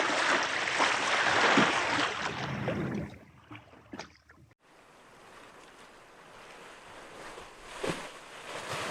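Ocean water rushing and splashing, which fades out about three seconds in. After a cut, fainter sea noise slowly swells again, with a brief splash near the end.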